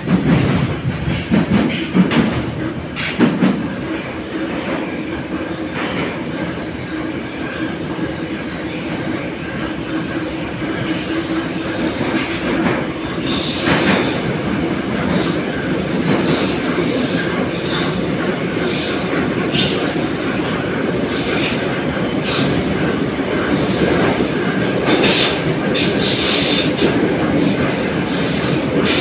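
81-717.5 metro car running, heard from inside the car: a continuous rumble of wheels on rail with a steady hum and rail-joint clicks. High wheel squeal comes and goes in the second half, and the sound slowly grows louder.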